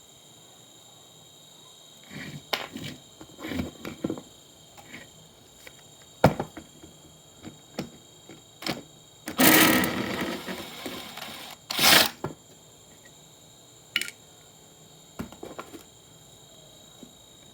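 Hands and tools working on an old computer monitor being taken apart: scattered clicks and knocks, with a couple of seconds of scraping about nine seconds in, ending in a sharp knock.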